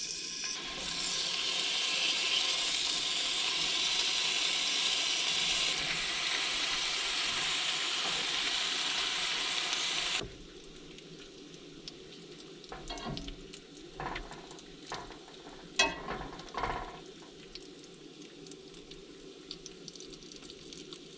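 A steady, loud hissing sizzle that cuts off suddenly about ten seconds in, followed by scattered light knocks and clatter.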